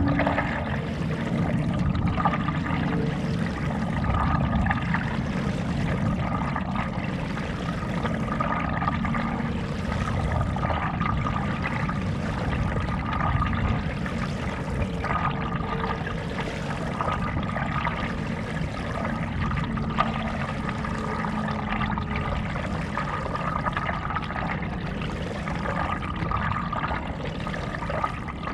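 Stand-up paddleboard paddle strokes in lake water: splashing and trickling water that swells and ebbs every second or two.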